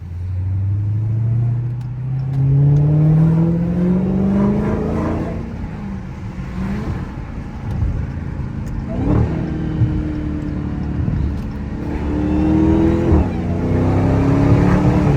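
Dodge Hellcat's supercharged 6.2-litre HEMI V8 under hard acceleration. The revs climb steadily for about five seconds and drop at a gear change, then the engine pulls again with more shifts around nine and thirteen seconds in, still rising at the end.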